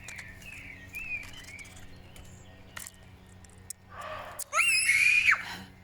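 A deer barking close by: one loud, harsh bark about four seconds in, lasting about a second, after fainter calls.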